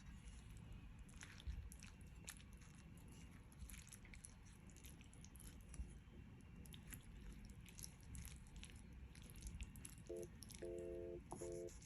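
Near silence with faint, scattered light clicks and taps over a low room hum. About ten seconds in, a pulsing electronic beep tone starts, switching on and off in short bursts.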